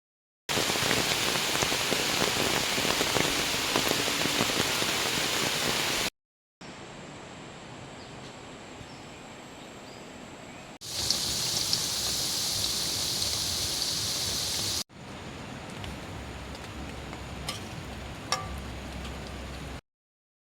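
Heavy rain falling, heard in four short clips cut together, each starting and stopping abruptly; the first and third are the loudest.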